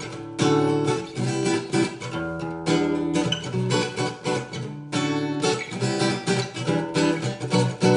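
Acoustic guitar strumming chords: the instrumental intro of a song.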